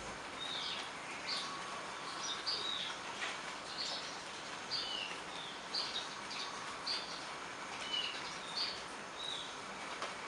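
Steady rain falling, an even hiss, while a small bird chirps over it again and again, short sharp calls every half second to a second, some dropping in pitch.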